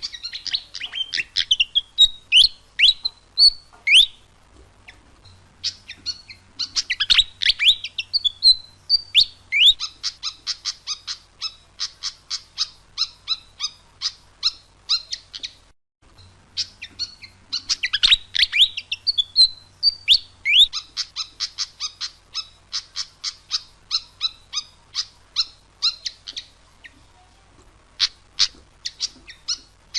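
Malaysian pied fantail (murai gila) song: squeaky rising and falling whistles running into long, rapid trains of sharp chattering notes. After a short break near the middle the same sequence repeats, as a looped lure-call recording.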